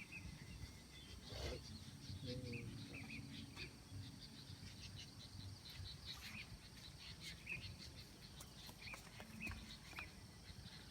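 Faint birds chirping in short, scattered calls over a low background hum of outdoor noise.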